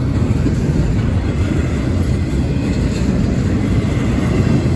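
CSX intermodal freight train's cars rolling past at speed: a steady, loud rumble of wheels on rail.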